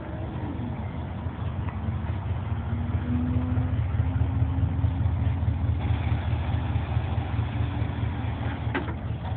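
Car engine running with a deep low tone, growing louder a couple of seconds in and easing off toward the end, with a couple of sharp clicks near the end.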